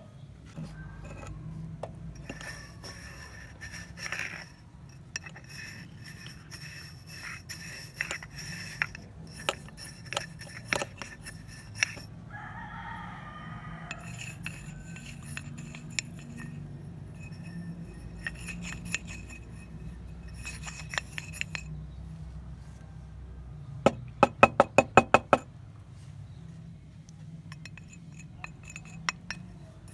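Scattered sharp clinks and taps of glass and metal lamp parts being handled, over a low steady hum, with a quick run of about ten loud taps near the end.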